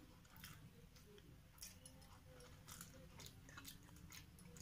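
Faint chewing, with scattered soft clicks of fingers picking food from steel dishes while eating by hand.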